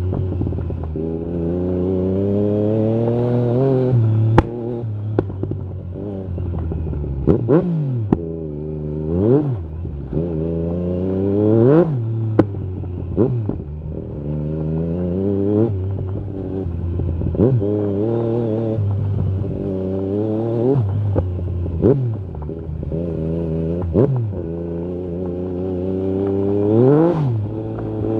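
Yamaha MT-09 SP's three-cylinder engine through an Akrapovic carbon Racing-Line exhaust with the dB killer out, revving up and dropping back again and again with quick throttle blips. Short sharp cracks are scattered through it.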